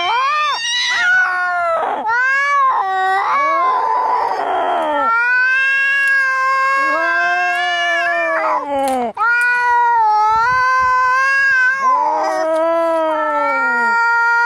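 Angry cats caterwauling: long, wavering yowls that swoop up and down in pitch, one after another, with a harsher, rasping cry about four seconds in.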